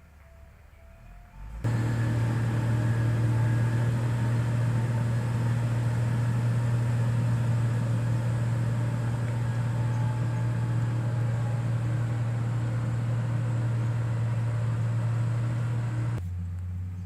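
Heavy construction machine's diesel engine running at a steady drone. It starts abruptly about a second and a half in and cuts off abruptly near the end.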